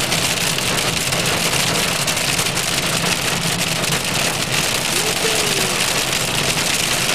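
Heavy rain pattering on a car's roof and windshield, heard from inside the cabin as a steady dense patter of drops over the low hum of the running engine.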